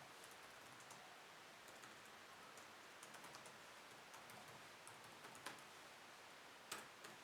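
Light typing on a computer keyboard: soft irregular key clicks over a faint background hiss, with a couple of sharper clicks near the end.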